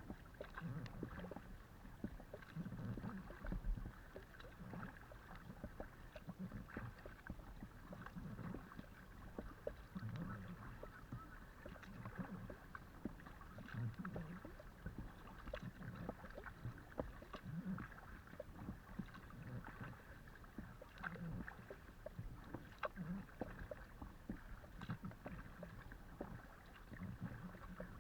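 Kayak paddling: a low rush of water against the hull comes with each paddle stroke, about every two seconds. Splashes and drips from the blades fall between the strokes.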